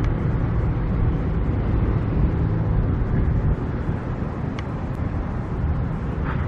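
Steady low rumble of engines and road traffic, with no single event standing out.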